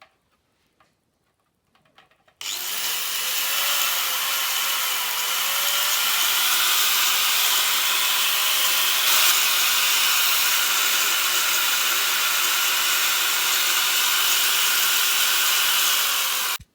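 Power tool running on a workpiece for about fourteen seconds: it starts about two seconds in and cuts off suddenly near the end.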